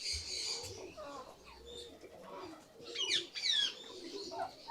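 Caged birds calling: low cooing and chirping, with a quick run of sharp, falling, high-pitched calls about three seconds in.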